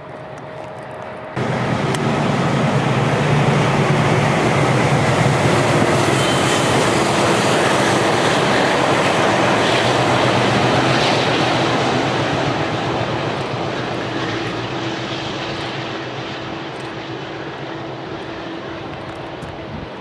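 Freight train passing close by: the locomotive's steady drone under the noise of the wagons running on the rails. It starts suddenly about a second and a half in, is loudest for several seconds, then fades away over the second half as the train moves off.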